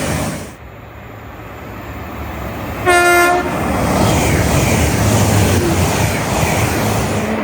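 An approaching train sounds one short horn note about three seconds in, then runs past with loud, steady wheel and rail noise. Another loud train noise drops away within the first second.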